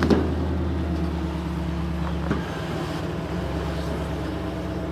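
Vehicle engine running steadily with a low, even hum, the lowest note easing off about halfway through, and a sharp knock right at the start.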